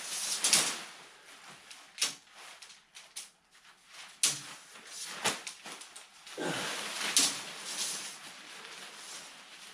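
Nylon tent fabric rustling as it is handled, with a few sharp clicks of plastic tent clips snapping onto the poles.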